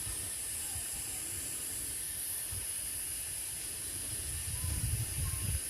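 Outdoor ambience: a steady high-pitched hiss from insects, with wind rumbling on the microphone that gusts harder about four and a half seconds in.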